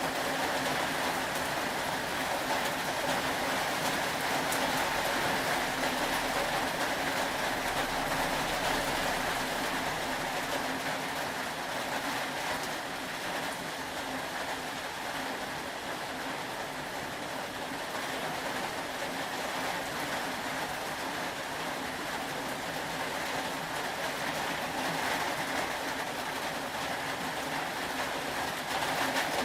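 Steady rain falling, an even unbroken hiss with no distinct events.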